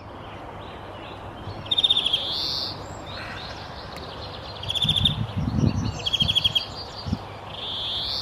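A bird singing short, fast trilled phrases, four of them a second or two apart, over steady outdoor background noise. Low rumbling bursts come midway through.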